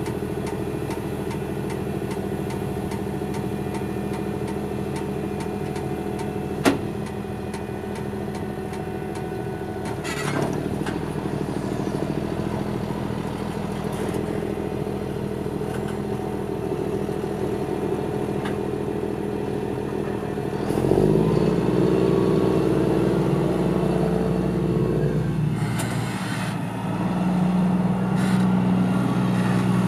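Claas Xerion tractor's diesel engine running steadily, with a sharp click about seven seconds in. The engine picks up revs about two-thirds of the way through and again near the end as the tractor accelerates.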